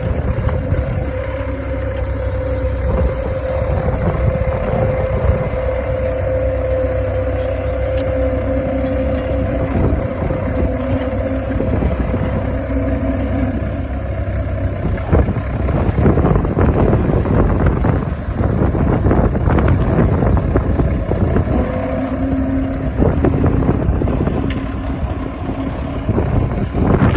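Fordson N tractor's converted Fordson Major diesel engine running steadily, with a steady whine through the first third. About halfway through it turns rougher and slightly louder.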